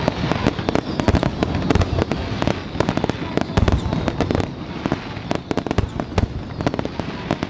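Aerial fireworks bursting in a rapid, dense volley: many overlapping bangs and crackles, thinning a little in the second half.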